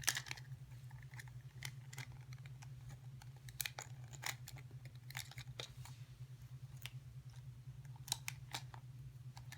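Small toy accessories being handled and put into a toy carrier bag: scattered light clicks and taps, over a steady low hum.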